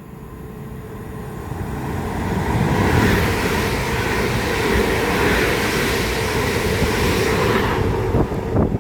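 A pair of Class 350 Desiro electric multiple units passing through the station at speed. The noise builds over the first three seconds, holds steady with a constant hum, and falls away near the end, with a few sharp clicks as the last vehicles go by.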